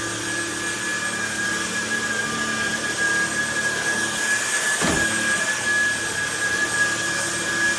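Trucozie cordless stick vacuum running, a steady high motor whine over rushing air. A brief knock about five seconds in.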